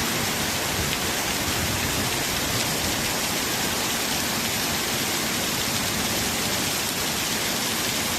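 Steady heavy tropical rain, an even hiss of falling rain with faint scattered drop ticks.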